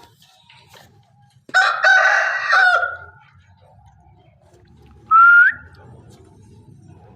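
Ringneck parrot calling: a loud, drawn-out, crow-like call lasting about a second and a half, then a short rising whistle a couple of seconds later.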